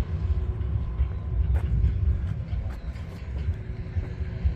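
A low, uneven rumble with a few faint clicks scattered through it.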